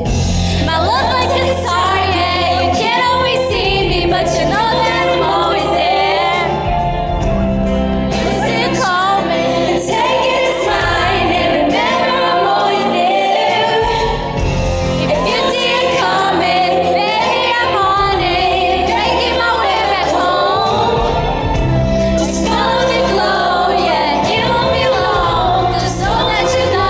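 A female lead vocalist sings a slow pop ballad live over band accompaniment, with sustained bass notes beneath the melody.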